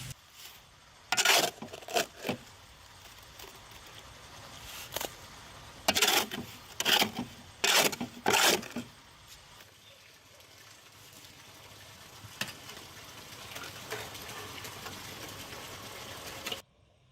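A series of sharp knocks or strikes: a few about a second in, then four evenly spaced blows a little under a second apart, over a steady background hiss that cuts off suddenly near the end.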